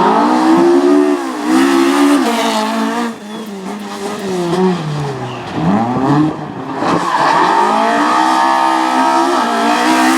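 Rally car engine revving hard through the gears, its pitch climbing, dropping at each change and falling deeply about halfway through before climbing again to a high, steady note.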